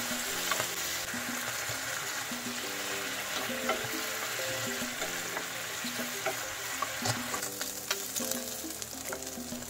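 Diced chicken breast sizzling in hot olive oil in a nonstick frying pan, stirred with a wooden spatula that scrapes and taps against the pan now and then. Background music plays along.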